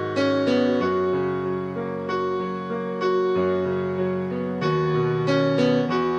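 Slow instrumental keyboard music on an electric piano, sustained chords changing about every second or two.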